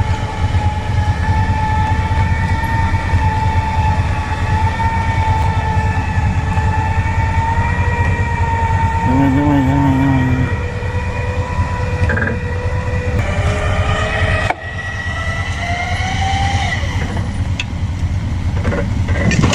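Heavy vehicle engine running hard with a steady high whine over a deep rumble; the sound changes abruptly about fourteen and a half seconds in.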